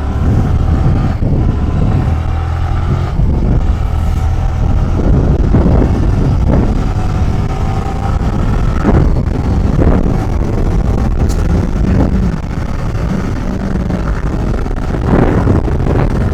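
Motorcycle engine accelerating under hard throttle, its pitch climbing, dropping at a gear change and climbing again, over a low wind rumble on the microphone.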